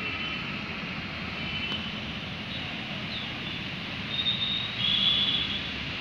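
Birds calling in a peepal tree: short high whistled notes, the loudest pair a little after four and five seconds in, over a steady background rush.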